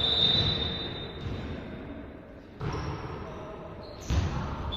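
Referee's whistle blowing a single steady note for about a second. A volleyball is then struck twice with sharp thuds, with players' voices around it in a gym hall.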